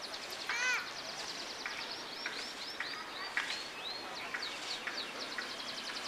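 Small birds chirping: repeated short arched calls with a fast, high twittering trill running through.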